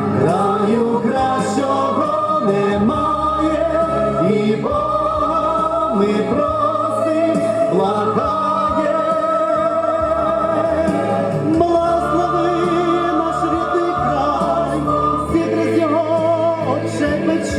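A slow song: voices singing long held notes with vibrato over steady instrumental accompaniment.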